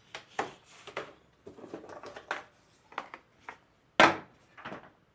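Irregular knocks and clatters of hard objects being handled, about a dozen short hits with the loudest, a sharp knock, about four seconds in.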